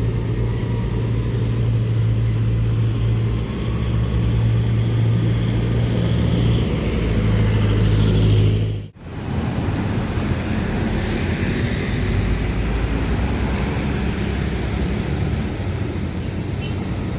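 Truck engine running close by with a loud, steady low drone, its pitch rising slightly. About nine seconds in, the sound cuts abruptly to steady road traffic noise of vehicles passing.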